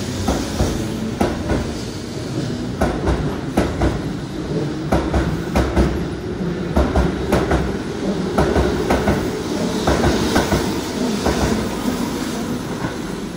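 Keihan 8000-series electric train pulling out of the station past the platform, with a continuous rumble and a steady run of wheel clicks as its cars roll over the rail joints.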